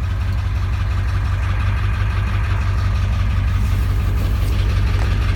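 A pickup's 7.3-litre V8 diesel idling steadily, with an even low pulsing drone.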